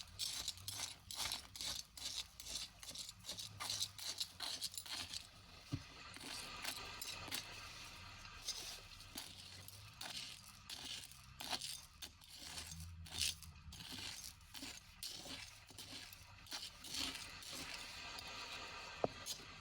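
Hands picking through and handling small hard objects, a rapid, irregular series of scrapes, clicks and light clinks.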